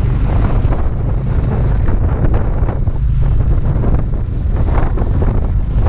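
Wind buffeting the microphone: a steady, loud low rumble, with a faint haze of outdoor noise above it.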